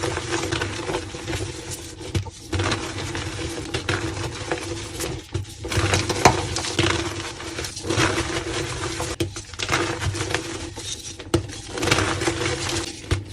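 Reformed gym chalk being crushed, a continuous dry crumbly crunching made of many small cracks, with a few short pauses, over a steady low hum.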